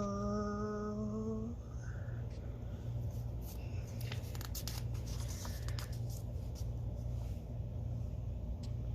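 A woman's voice holding a long, ghostly 'arrgh' moan that falls in pitch and then stays steady, stopping about a second and a half in. After it comes a low steady hum with faint scattered clicks and rustles.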